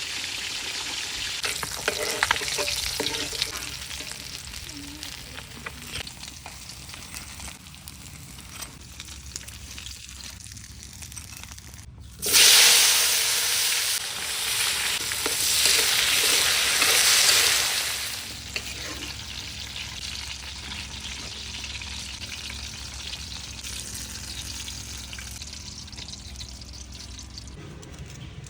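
Fish frying in hot oil, sizzling with small pops. About twelve seconds in, the sizzle suddenly grows loud for about six seconds, then settles back to a quieter sizzle.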